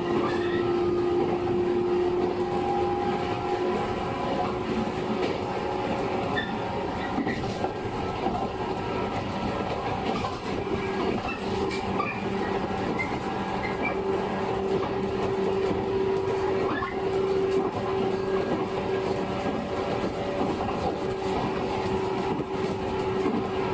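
Running sound of a 115 series electric train under way, recorded inside the car: a steady rumble of wheels on rail with a hum from the traction motors and gears. The hum fades about six seconds in and comes back a few seconds later.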